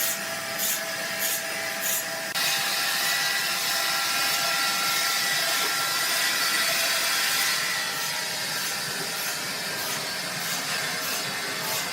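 Sawmill machinery running, with a rhythmic scraping stroke a bit under twice a second. About two seconds in this changes abruptly to a steady mechanical hiss with a high whine. The rhythmic strokes come back over the last few seconds.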